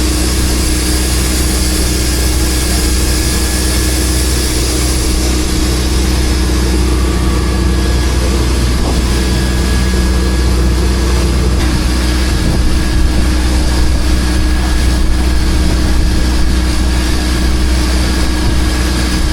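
An engine running steadily at a constant speed, loud and close, with a deep hum and no change in pitch; it cuts off abruptly near the end.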